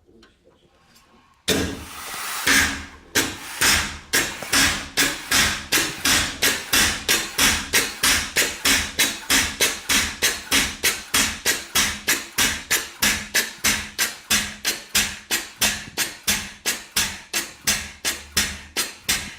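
Homemade steam engine built from a V2 air compressor, running on live steam. A sudden rush of steam about a second and a half in, then a steady rhythm of sharp exhaust chuffs at about three a second as the engine runs under full steam.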